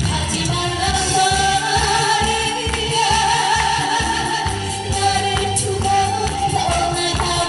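A woman singing a song over music accompaniment with a steady bass beat, holding long notes.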